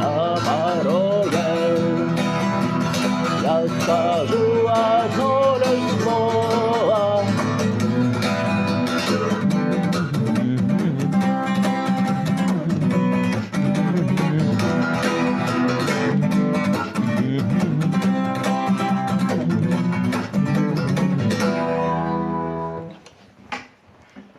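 Acoustic guitar strummed in steady chords, with a singing voice finishing a sung line over it for the first several seconds. The strumming stops about 22 seconds in and the last chord dies away.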